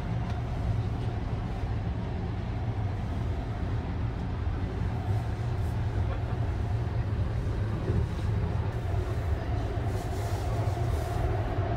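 Steady low rumble of a moving sleeper train heard inside its compartment: the running noise of the Sunrise Izumo's 285 series electric train.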